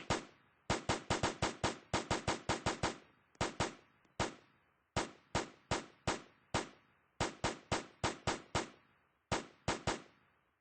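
Rapid runs of sharp bangs, several a second, each with a short ringing tail, broken by brief pauses.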